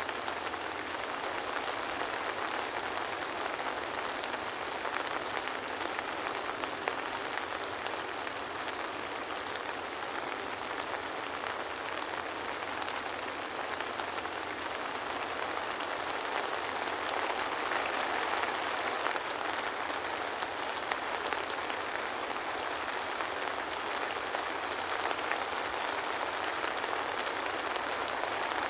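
Steady soft rain falling, a constant even hiss flecked with small drop ticks, with no thunder.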